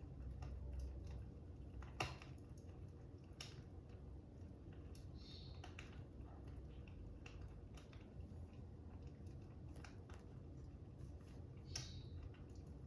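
Fire crackling: irregular small pops and snaps over a low steady rumble, with a sharper pop about two seconds in and another near the end.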